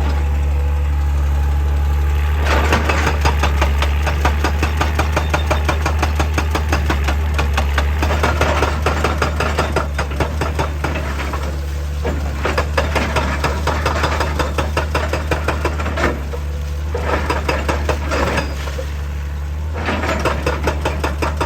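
Heavy diesel machinery engine running steadily with a deep hum, overlaid by repeated stretches of rapid, dense clattering that pause briefly every few seconds.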